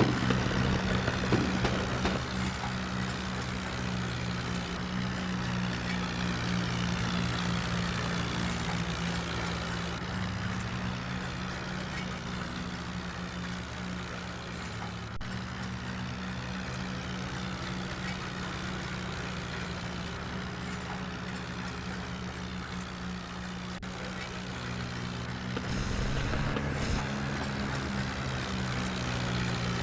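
Tractor engine running steadily, getting a little louder near the end.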